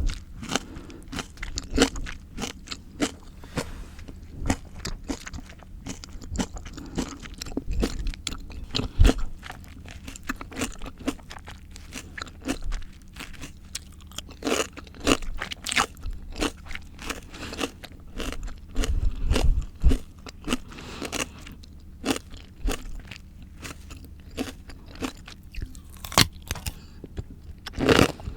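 Close-miked chewing of crisp raw fruit or vegetable: a steady run of irregular wet crunches, with a few louder bites.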